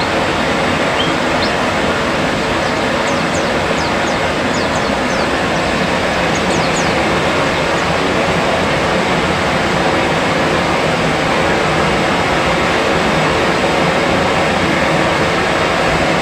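Loud, steady rushing noise with no change in level. A few faint, brief high chirps come in the first half.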